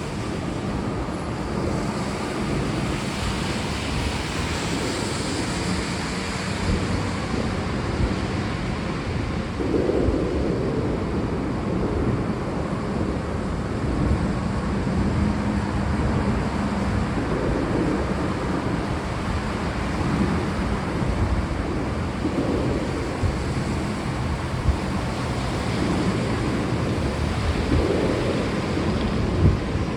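Steady rain with a deep rumble of thunder underneath, which swells several times.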